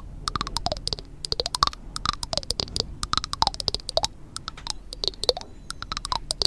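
Close, rapid clicking and tapping in clusters about twice a second, some clicks followed by a short falling tone.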